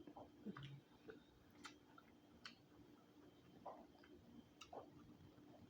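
Faint, irregular clicks and mouth sounds of someone eating crab close to the microphone, roughly one a second, over a faint low steady hum.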